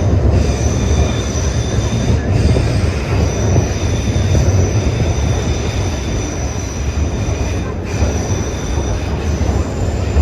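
Vintage R1-9 subway cars running at speed, with a heavy, steady low rumble from wheels on rail and a high-pitched wheel squeal that comes and goes throughout.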